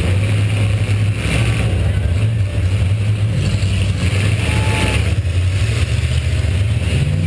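V8 engine of a welded demolition-derby car running steadily under a camera mounted on the car, with a deep, slightly wavering drone.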